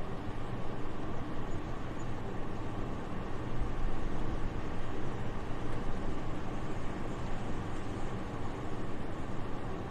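Soft winter wind used as white noise: an even, steady rush of air without gusts.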